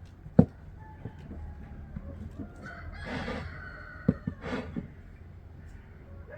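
A rooster crowing, with chickens clucking, in a farmyard. A sharp knock about half a second in is the loudest thing, with another smaller knock around four seconds.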